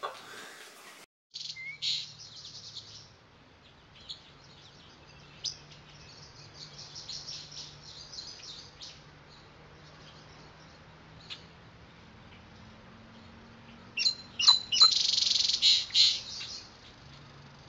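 Small birds chirping and twittering in short scattered calls, with a louder run of rapid chirps about fourteen seconds in. A faint low steady hum lies underneath.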